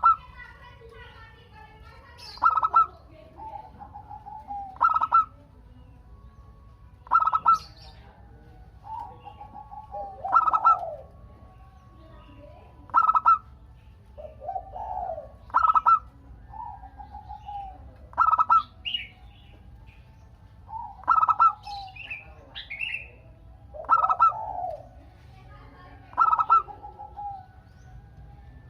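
Zebra dove (perkutut, Geopelia striata) singing its cooing song: a loud, nearly identical phrase, a sharp note followed by lower rolling coos, repeated about every two and a half seconds.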